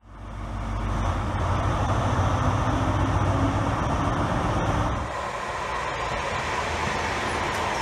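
Fades in on a Class 43 HST diesel power car's engine running with a steady low hum at a station platform. About five seconds in, a sudden cut brings the lighter running noise of a Class 323 electric multiple unit.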